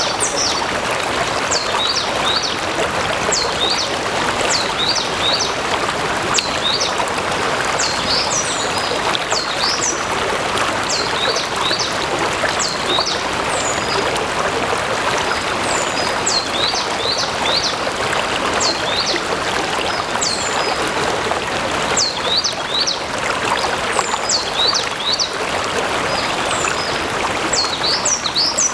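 A stream flowing steadily, with a bird repeatedly giving short, high, falling chirps over the water.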